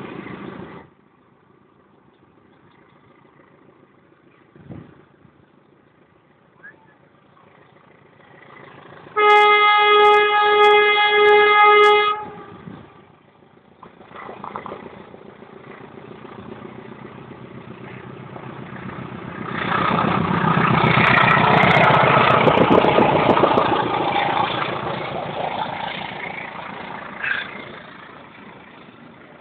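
Train horn sounding for about three seconds in a few blasts with short breaks, then an express passenger train passing at speed: its rumble builds, stays loud for several seconds and fades away.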